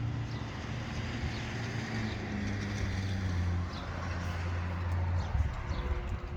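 A low, steady engine hum, as of a motor vehicle running close by, easing off about five seconds in.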